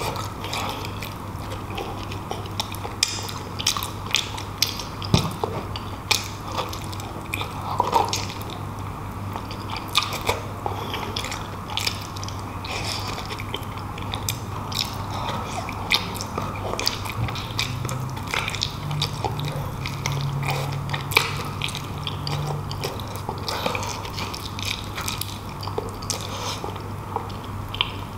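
Close-up mouth sounds of eating beef shank: biting and chewing soft meat and tendon off the bone, with many short wet clicks and smacks. A steady low hum runs underneath.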